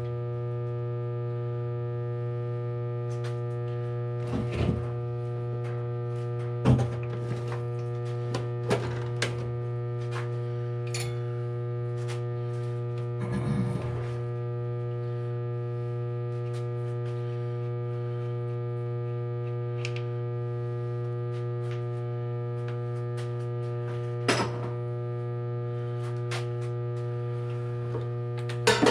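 Steady electrical mains hum, with a few scattered metallic clinks and knocks of tools and engine parts being handled on the bench.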